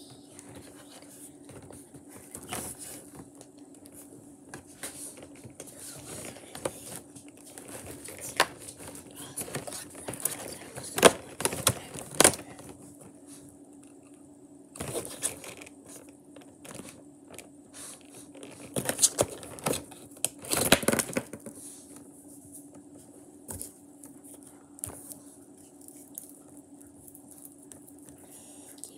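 Handling of a chocolate calendar's cardboard and wrapper: irregular scrapes, taps, tearing and crinkling, busiest in two spells, one a little before the middle and one about two-thirds through. A faint steady hum runs underneath.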